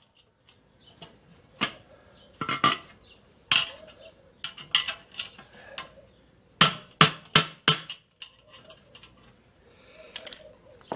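Sharp metal knocks as a metal part of a Weber kettle barbecue's leg assembly is hammered into place: a few single strikes, then a quick run of four.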